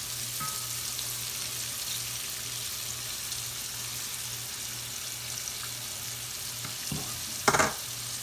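Battered shrimp deep-frying in oil in a cast-iron skillet: a steady sizzle and crackle, with a single short clank near the end.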